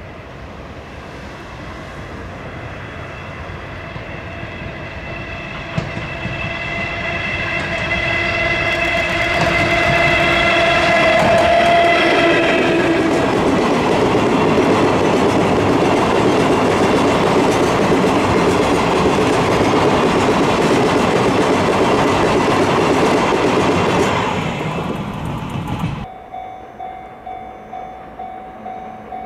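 A train approaches and gives a long horn blast whose note drops in pitch as it comes level, then runs past close by with a loud rushing rumble that fades away. After a cut near the end, a quieter regular ringing pulse about twice a second.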